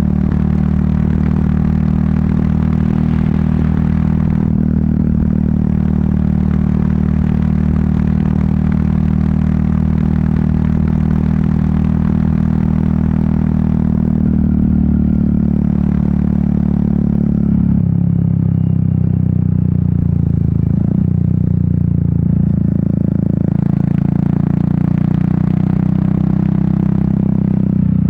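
Royal Enfield Meteor 350's single-cylinder engine and exhaust running steadily under way. Its note changes about two-thirds of the way through, wavers briefly, then settles again.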